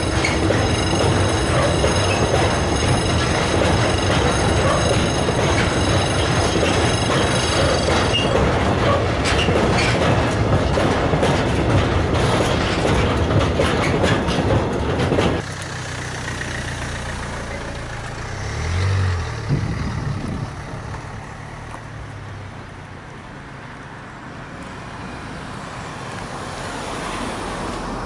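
Freight wagons loaded with steel coils rolling past on the rails, with a high-pitched squeal for about the first eight seconds and a rapid clatter as the last wagons go by. The train noise cuts off suddenly about halfway through, leaving quieter outdoor background with a brief low hum swelling and fading a few seconds later.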